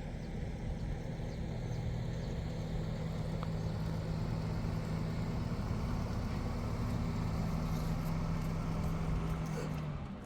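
Car engine running with a steady low hum, which cuts off suddenly near the end.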